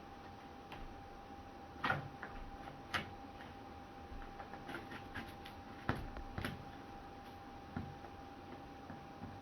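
Irregular light clicks and knocks, the loudest about two, three and six seconds in, over a faint steady hum.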